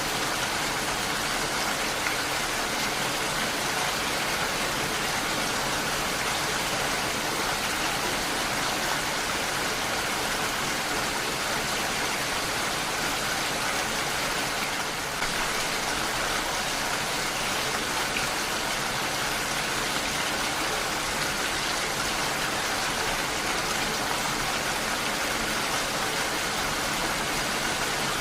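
Heavy rain falling steadily, a dense even hiss of drops with no separate patters standing out. It dips briefly in loudness about halfway through.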